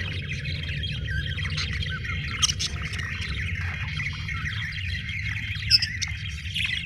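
Several budgerigars chattering and warbling continuously, with a couple of sharper chirps, about two and a half seconds in and near the end. A steady low hum runs underneath.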